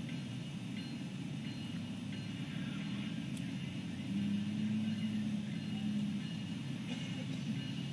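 Diesel freight locomotive approaching from a distance: a steady low rumble, with a louder humming tone rising for about two seconds in the middle.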